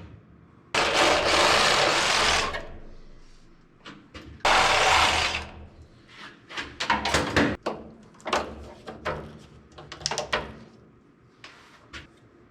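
Power drill running in two bursts of about a second and a half each, each starting suddenly and winding down, followed by a run of clicks and knocks from handling hardware.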